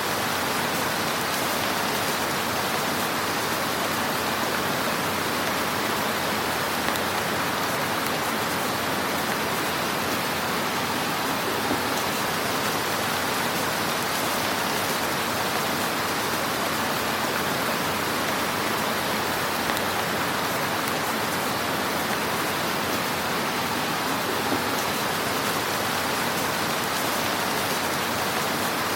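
Wood fire burning in a fireplace: a steady hiss of flames with a few faint crackles and pops.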